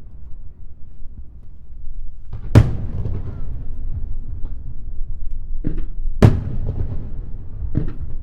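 Aerial firework shells bursting over a continuous low rumble: two loud booms, about two and a half and six seconds in, with smaller bangs between and after them.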